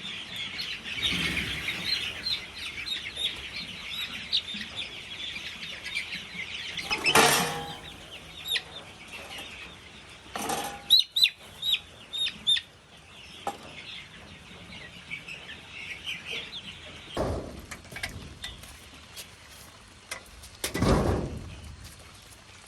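Chickens clucking and chirping, busiest in the first several seconds. A few louder sudden noises cut in: one about seven seconds in, a quick run of them around eleven to twelve seconds, and two more later on.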